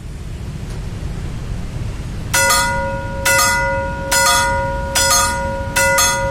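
Level-crossing warning bell starting to ring about two seconds in, sharp metallic strikes in quick pairs roughly once a second: the crossing is warning of an approaching train. A steady low rumble lies underneath.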